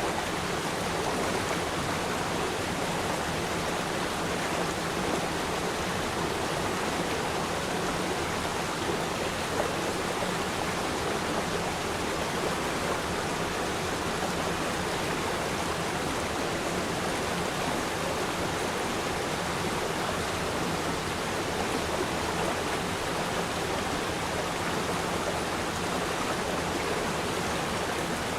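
River stream flowing: a steady, even rush of running water.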